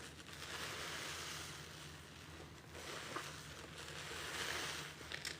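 Water streaming out of a soaked sponge as it is squeezed and rinsed, in about three swelling rushes of splashing that rise and fade.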